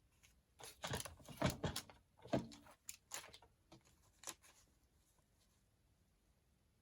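Sheets of paper crinkling and rustling as they are handled, a run of sharp, irregular crackles lasting about four seconds before it goes quiet.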